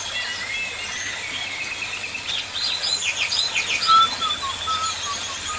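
Several birds calling at once: clusters of quick falling chirps, thin held whistles, and a run of short, lower whistled notes in the second half.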